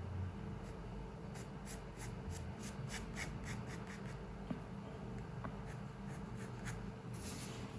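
Pencil drawing on paper: a quick run of short scratching strokes in the first half, a few scattered strokes, then one longer stroke near the end, over a steady low room hum.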